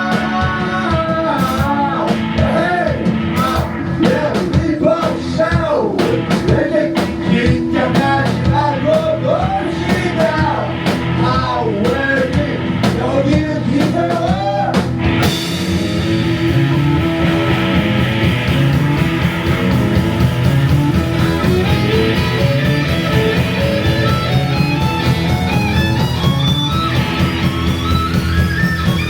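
Live psychedelic rock band with electric violin, bass, drums and guitar, playing continuously. The lead line slides and wavers in the first half. About halfway through, the sound suddenly fills out in the highs, and near the end a line climbs in rising steps.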